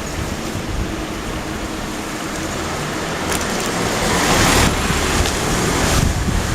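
Typhoon wind buffeting the microphone, a heavy low rumble under a steady rushing noise that swells louder about four seconds in.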